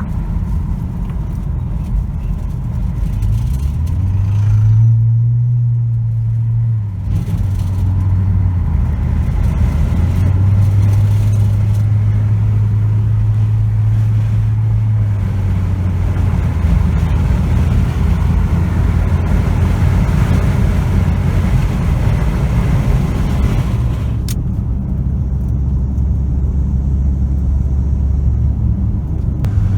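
Ford Escape's 1.5-litre turbocharged four-cylinder with a free-flow intake and high-flow exhaust, droning under way. The drone climbs in pitch about four seconds in, holds steady for a while, then settles to a lower, steady note through the second half.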